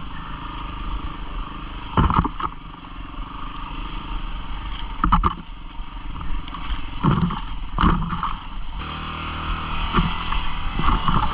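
250 cc single-cylinder dual-sport motorcycle running at low trail speed over rough ground, with several sharp knocks and clatters as the bike jolts along; the engine note changes near the end.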